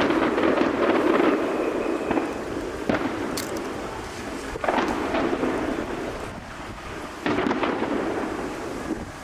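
Aerial fireworks shells bursting high overhead: deep booms with long rolling rumbles, a fresh burst about three seconds in, another near five seconds and another past seven.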